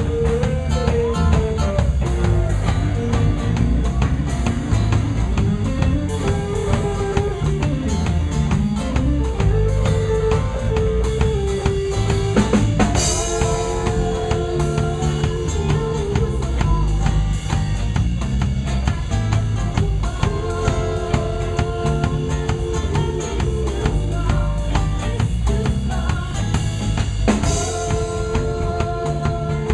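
Live band playing: drum kit keeping a steady beat under a bass line, with a melodic lead line on top. A cymbal crash comes about halfway through and another near the end.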